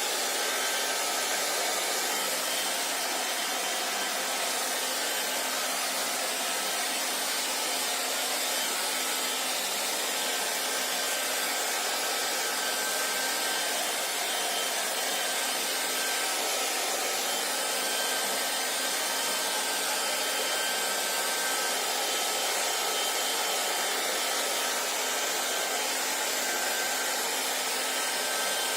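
Hair dryer blowing continuously, a steady rushing hiss with a faint whine from its motor and fan.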